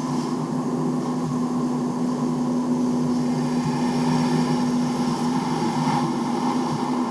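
A farm vehicle's diesel engine running at a steady speed, a constant drone that does not rise or fall.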